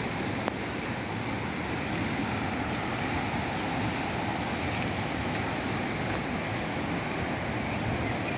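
Waterfall and fast stream water rushing in a steady, unbroken wash of noise, with a faint click about half a second in.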